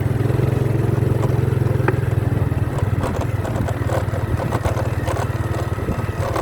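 Motorcycle engine running steadily, with scattered light clicks in the second half.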